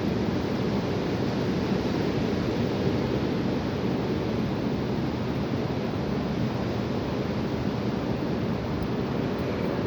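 High winds blowing: a steady rushing noise, heaviest in the low end, with wind on the microphone.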